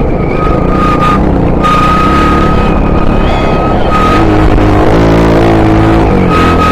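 Honda XR 250 Tornado's single-cylinder four-stroke engine running under way, shifting in pitch about four to six seconds in as the throttle changes. A steady high whine sits over the rumble.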